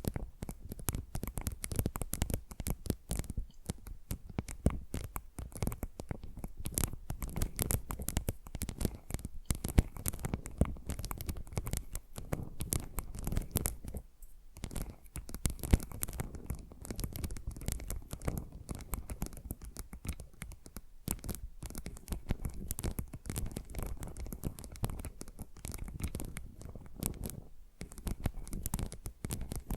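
Fast fingernail scratching and tapping close to a sensitive microphone, two trigger tracks layered over each other, one in each ear. The scratching is dense and continuous, with brief lulls.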